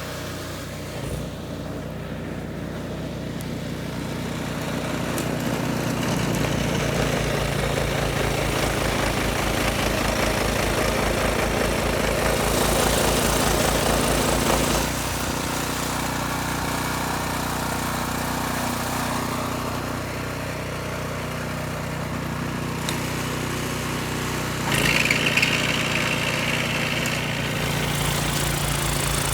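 A small engine running steadily, its speed and load shifting several times, with a brief louder push near the end.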